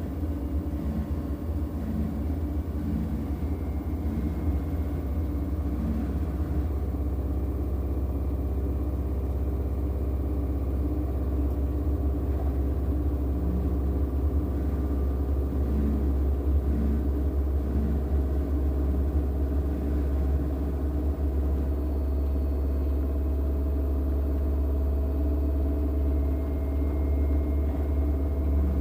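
LG washing machine's drum spinning fast in its final spin, a steady low rumbling hum with a faint whine above it that builds slightly over the stretch.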